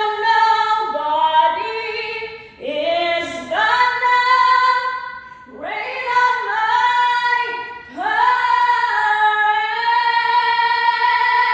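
A woman singing solo in long held notes across several phrases, the last note held from about eight seconds in.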